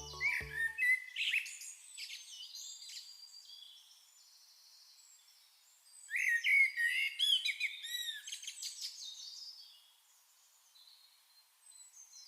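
Birds chirping and singing, many short overlapping chirps and whistles, busiest early on and in a louder spell from about six to ten seconds in, then fading out. The tail of a music track ends within the first second.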